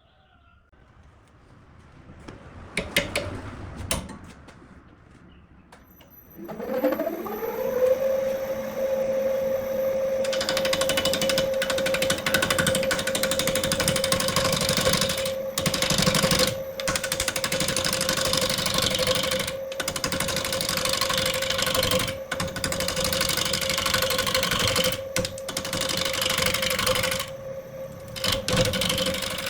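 A few knocks, then an electric wood lathe motor spins up to speed about six seconds in and runs with a steady whine. From about ten seconds in a tool cuts the spinning wood with a loud scraping hiss, breaking off briefly several times.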